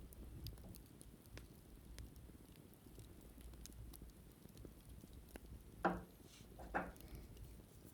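Wicker basket being handled and scratched: faint scattered ticks and crackles, then two short, louder scratchy rasps about six and seven seconds in.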